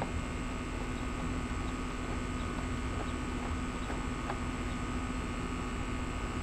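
Steady background hum and hiss with a fixed low drone, with a few faint clicks of small parts being handled.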